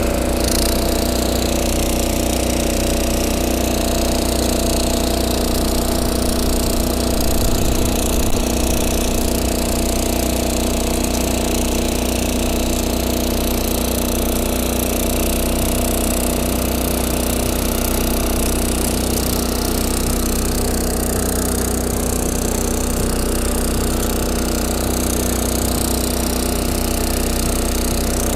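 Yanmar A-10V walk-behind cultivator's engine running steadily under load as it tills soil in second gear, with a brief louder patch about eight seconds in.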